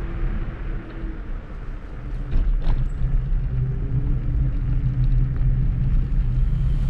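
Riding an electric scooter: a steady low rumble of wind on the microphone and tyres on the path, with a faint motor whine that drifts slightly in pitch.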